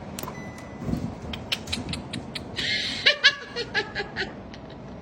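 Parrot mimicking laughter: a quick run of about eight short, high-pitched ha-ha notes about halfway through, with a few faint clicks before it.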